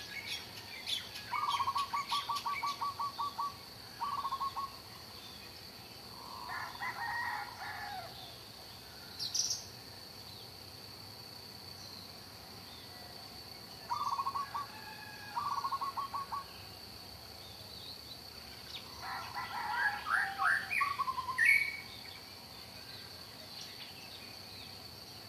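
Birds calling: several bursts of a rapid, even trill and, in between, longer chirping calls, over a steady thin high-pitched tone.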